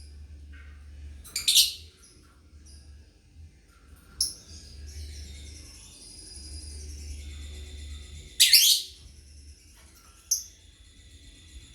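Lovebirds chirping: two loud, sharp chirps, about a second and a half in and again near eight and a half seconds, with shorter calls between and a steady high twittering through the second half, over a low steady hum.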